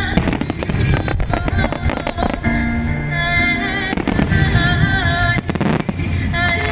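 Rapid, repeated firework shell bursts of a starmine barrage, many sharp bangs and crackles in quick succession, over music playing along with the display.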